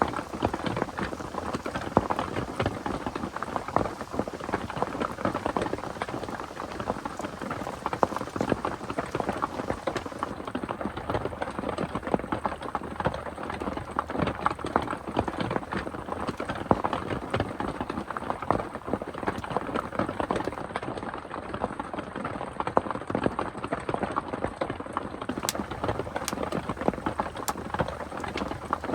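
Heavy rain falling steadily, a dense crackle of many close drops hitting a surface.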